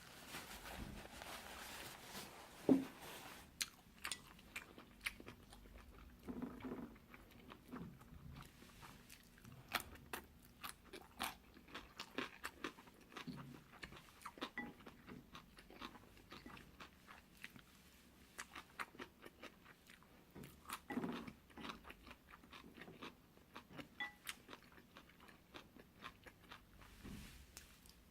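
Close-up chewing and biting of jjolmyeon, spicy chewy Korean cold noodles: a steady run of small wet mouth clicks, with a few louder bites, the loudest about three seconds in.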